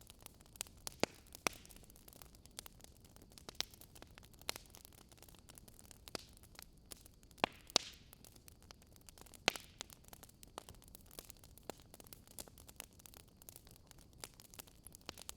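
Campfire wood fire crackling: irregular sharp pops and snaps over a faint steady hiss, with the loudest pops about a second in, around the middle and just before two-thirds of the way through.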